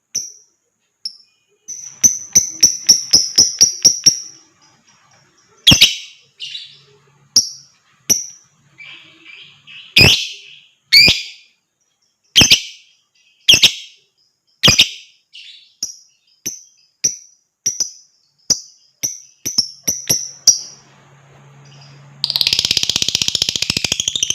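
Lovebird calling with sharp, high chirps: first a quick run of about five a second, then single chirps every second or so that come closer together. About two seconds before the end it breaks into a fast, continuous chattering trill, the long 'ngekek' that lovebird keepers want to hear.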